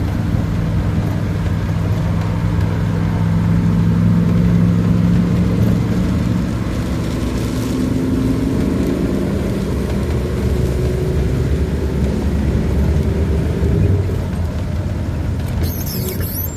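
1992 Dodge B250 van's engine and road noise while driving, the engine pitch rising through the middle and settling again. A brief high squeak near the end.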